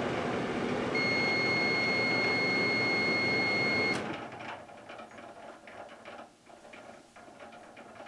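Microwave oven running, then a single long steady beep of about three seconds marking the end of the timed cycle. The oven's hum cuts off as the beep ends, leaving only faint clicks.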